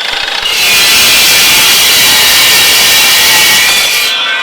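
Dry-cut metal saw (cold cut saw) slicing through 1 by 3/8 inch steel flat bar: the motor whines briefly, then a loud, harsh cutting hiss sets in about half a second in and stops abruptly near the end as the blade breaks through.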